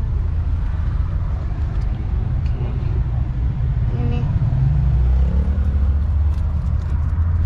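A vehicle's engine running at idle, a steady low rumble heard from inside the cabin, rising briefly in pitch about five seconds in. Faint voices can be heard under it.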